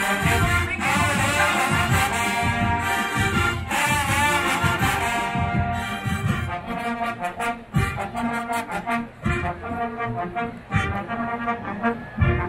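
Brass band music with trombones and trumpets over steady drum hits, loudest in the first half.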